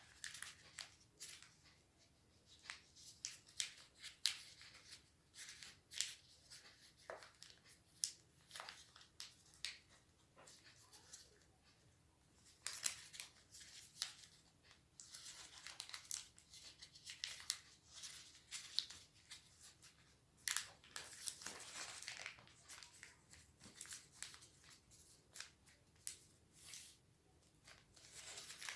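A sheet of origami paper being folded and creased by hand: quiet, crisp crinkles and rustles coming on and off, with longer stretches of rustling in the middle and again a little later.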